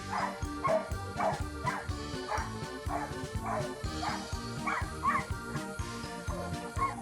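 A dog barking over and over, about two short barks a second, over background music with a steady beat.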